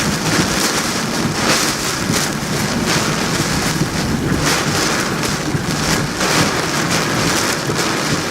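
Hurricane Florence's wind and driven rain, a steady rushing that swells and eases in gusts every second or so.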